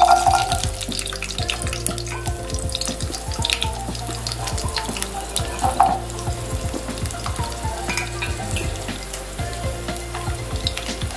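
Food sizzling and crackling in hot oil in a pan, starting suddenly and going on steadily with many small pops.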